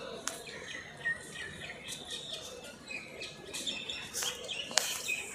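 Birds chirping, many short high chirps coming and going, with a few sharp clicks, the loudest one near the end.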